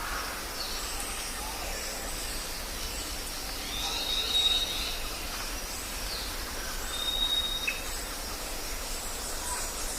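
Jungle ambience: several birds calling over a steady background hiss, with a long high whistle held for about a second, twice.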